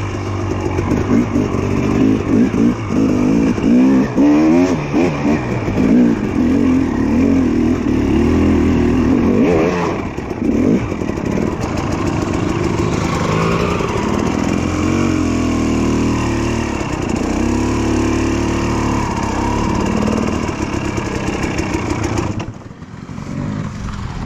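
Two-stroke dirt bike engines running with the throttle blipped again and again, the pitch swooping up and down. The sound drops sharply near the end, then carries on more quietly.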